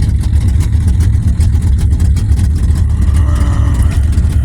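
406 cubic-inch stroker V8 in a Chevy S-10 idling with a loud, pulsing low rumble.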